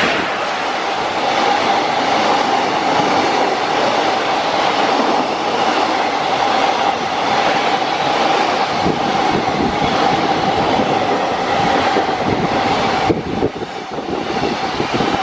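Freight train passing close by, its wheels running on the rails in a loud, steady rush with a steady whine through it that drops away about thirteen seconds in.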